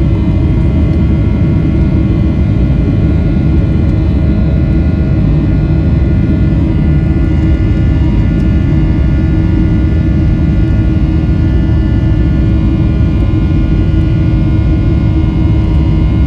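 Boeing 737-800's CFM56 jet engines running steadily, heard from inside the passenger cabin as a loud, even rumble with several steady whining tones over it.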